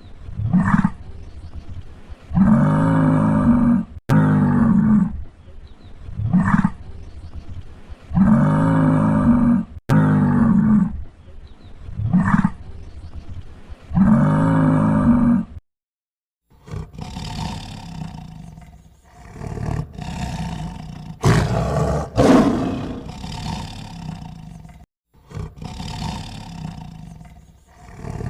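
A big cat roaring: long deep roars, each about a second and a half, alternate with short grunts in a pattern that repeats three times. After a short break near the middle, a rougher, more irregular series of animal calls follows.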